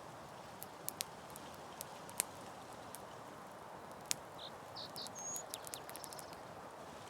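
Campfire burning with a steady low hiss and irregular sharp crackles and pops from the burning wood. A few short high chirps sound in the middle.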